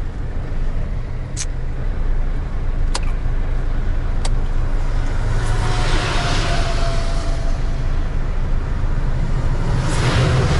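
GAZelle Next van driving, its engine and road noise a steady low rumble. There are three sharp clicks in the first half, and two swells of rushing hiss, one around the middle and one near the end.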